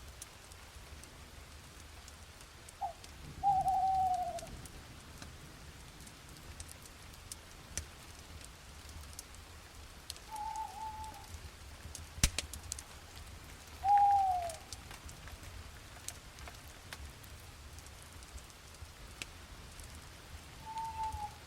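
Light rain falling with scattered drop ticks and one sharper tap about midway, while an owl calls five times, short hoots that drop in pitch, a few seconds apart.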